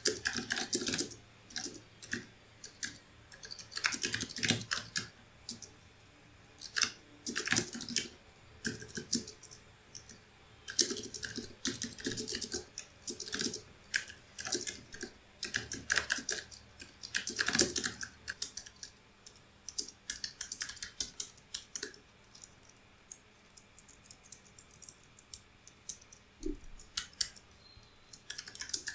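Typing on a computer keyboard: runs of fast keystroke clicks broken by short pauses, thinning to scattered, quieter key presses in the second half.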